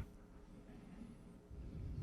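Quiet room tone with a faint low hum.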